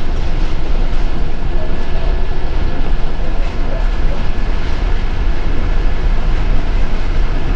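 Inside an MTA city bus: steady engine and road rumble, heavy in the low end, with a faint steady whine over it.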